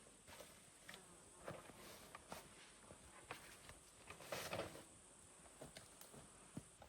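Faint forest ambience: a steady high insect buzz with scattered light ticks, and a louder rustle about four seconds in.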